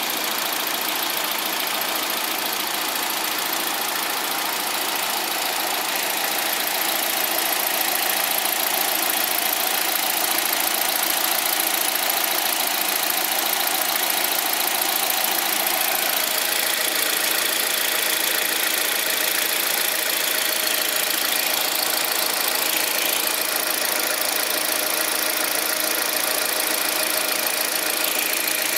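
Kia Rio's four-cylinder petrol engine idling, heard close up under the bonnet, with the clatter of its valvetrain. This noise is normal for this engine and comes from its mechanically set valve clearances between cam lobes and valves, with no hydraulic adjustment.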